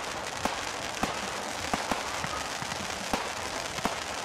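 Aerial fireworks going off: a steady crackling hiss with sharp pops about twice a second.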